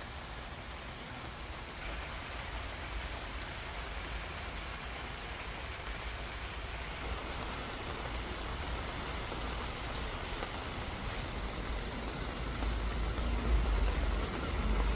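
Steady rain falling in an even hiss, with a low rumble underneath that grows louder in the last couple of seconds.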